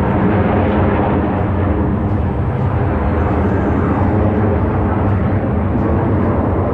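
Aermacchi MB-339 jet trainers of the Frecce Tricolori flying a display, their turbojet engines giving a loud, steady, deep jet noise.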